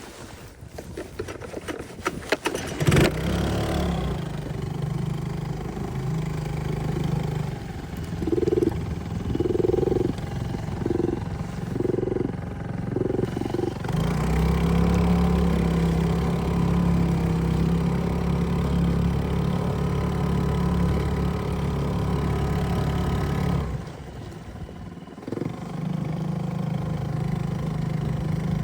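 Small 2-horsepower outboard motor on a mini boat, catching about three seconds in and running steadily. It is throttled up and louder about halfway through, eases off briefly near the end, then picks up again.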